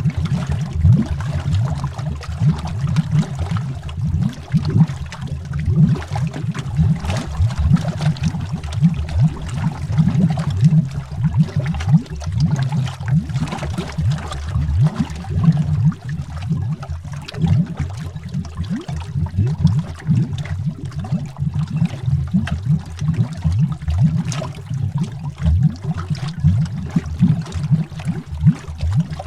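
Underwater bubbles rising and popping in a continuous dense stream, heard as deep, rapid, irregular bubbling and gurgling.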